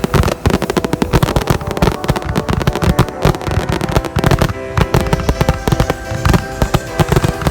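Dense crackling fireworks, many rapid sharp pops without a break, with music playing over them.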